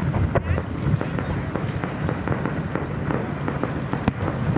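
Aerial fireworks shells bursting, with two sharp bangs, one just after the start and one about four seconds in, and smaller pops between them, over a steady low rumble of crowd and wind.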